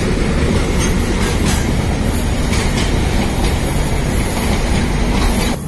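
Container freight train passing at close range: a steady rumble and rush of its wagons, with the wheels clacking over the rails. The noise drops away suddenly near the end as the last wagons go by.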